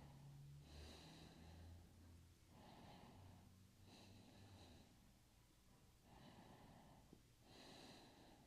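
Faint, slow breathing through the nose: about five soft inhales and exhales in turn, each under a second long.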